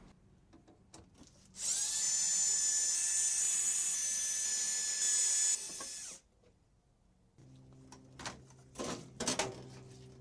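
Power drill running steadily for about four seconds, backing screws out of a microwave's sheet-metal outer shell, then stopping; a few knocks follow near the end.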